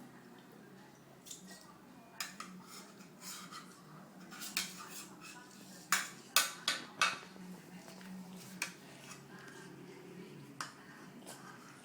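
Spoon clinking and scraping against a plate as a toddler eats cereal, in scattered sharp clicks with a quick run of louder clinks about six to seven seconds in.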